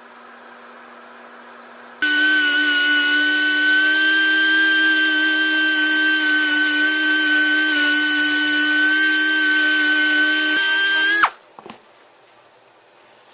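A small high-speed power tool, like a drill, running with a steady high-pitched whine for about nine seconds, then switched off and cutting out with a quick drop in pitch.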